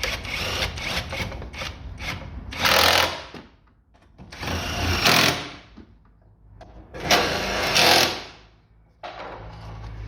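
Cordless impact wrench run in three short bursts, each about a second long, driving in the bolts of the battery tray. Scattered clicks and rattles come before the first burst.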